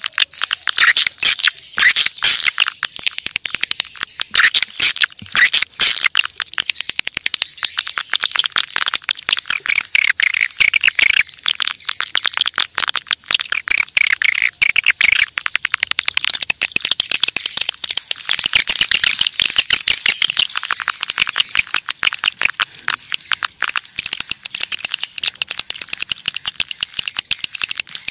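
Swiftlets calling: a dense, unbroken chatter of rapid high chirps and clicking rattles. This is a swiftlet lure call, the kind played to draw the birds to nest.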